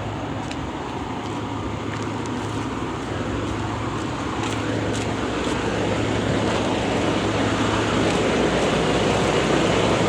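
Road traffic noise, a steady rush of passing vehicles with a low hum, growing slowly louder.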